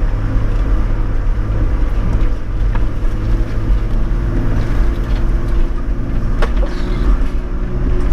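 Toyota Land Cruiser 105 Series engine running steadily as heard from inside the cabin, driving slowly along a muddy off-road track, with a few light knocks from the cabin.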